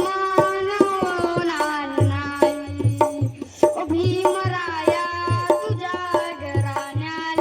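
A Bhim geet sung to a gliding, held melody, with a steady low drum beat coming in about two seconds in.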